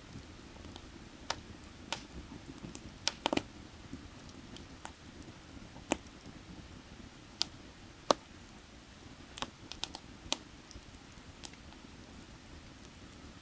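Burning firewood crackling: irregular sharp snaps and pops, a quick cluster a little over three seconds in and the loudest pop about eight seconds in. Beneath them runs a low steady rush of creek water.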